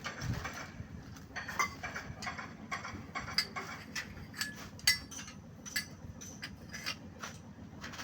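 Irregular metallic clinks and taps of hand tools and engine parts being handled during engine assembly, a dozen or more sharp knocks spread over a few seconds, over a faint steady low hum.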